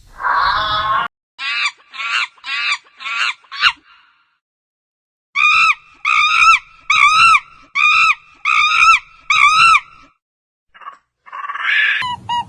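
A series of animal calls: one call about a second long, then five short high-pitched calls in quick succession. After a pause come about six evenly spaced, arched calls that rise and fall in pitch, and one more call near the end.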